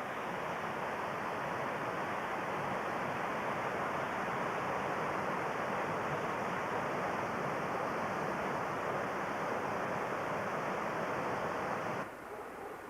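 Steady rush of flowing river water, a continuous even noise that drops off abruptly near the end.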